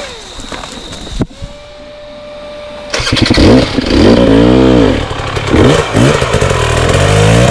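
Dirt bike engine, quieter for the first three seconds, then revved hard from about three seconds in, its pitch rising and falling in several surges as the throttle is worked on a steep climb.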